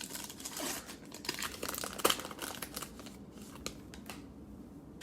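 Cellophane trading-card pack being torn open and crinkled, loudest with a sharp tear about two seconds in, then a few light clicks as the cards are handled.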